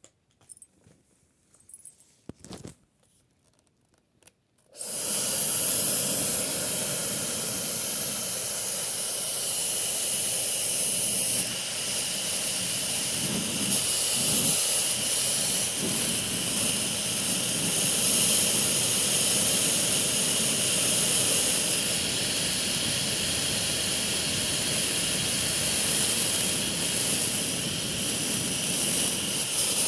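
A few light handling clicks, then a Xiaomi High-speed Ionic Hair Dryer switches on about five seconds in. It runs steadily with a strong rush of air and a high whine from its high-speed motor.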